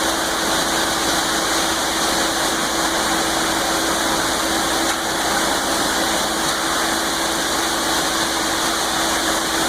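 Concrete mixer truck running steadily during the pour, a loud, even engine noise with one constant hum.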